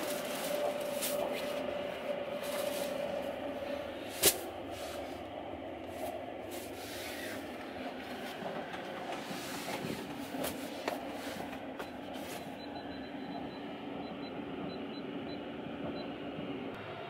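Running noise of the Sunrise Izumo's 285 series electric sleeper train, heard from inside a compartment: a steady rumble with a faint hum. A single sharp click comes about four seconds in.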